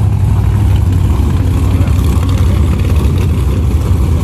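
Vehicle engine running with a steady, loud low drone and road or wind noise, no clear revving up or down.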